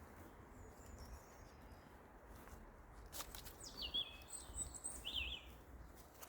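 Wild birds singing: faint high chirps and whistled phrases, busiest about three and a half to five and a half seconds in, over a steady low rumble.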